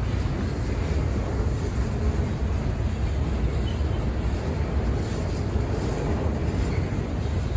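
Freight train rolling past, a steady low rumble of rail cars on the track.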